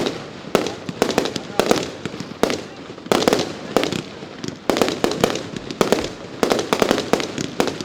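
Professional fireworks display: quick runs of sharp bangs in clusters that come about once a second.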